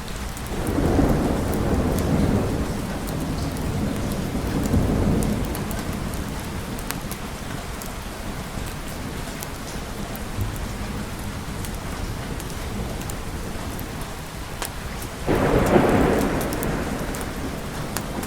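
Steady rain with thunder: a long rolling rumble swells about a second in and fades over several seconds, then a sharper thunderclap breaks near the end and rolls away.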